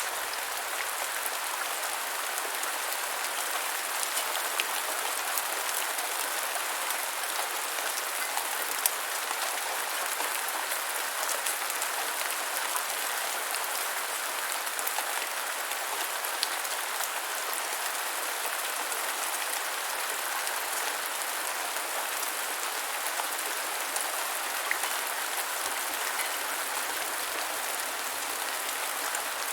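Steady rain falling on the ground, an even hiss sprinkled with the faint ticks of single drops.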